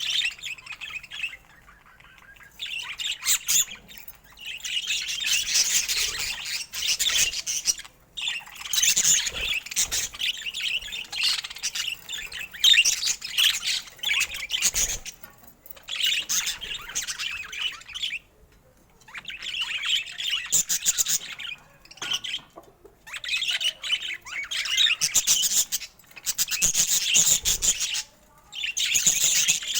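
Budgerigar warbling and chattering in busy bursts a few seconds long, separated by short pauses.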